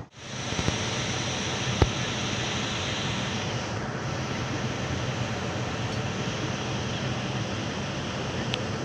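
Steady rushing noise aboard a moving passenger train, with a single sharp click about two seconds in.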